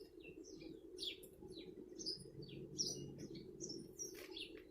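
Small birds chirping busily, several short high chirps a second, over a steady low hum.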